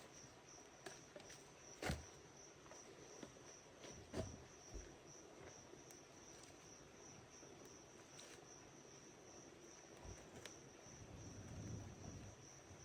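Insects chirring in a steady, high, finely pulsing tone, with a couple of faint knocks about two and four seconds in.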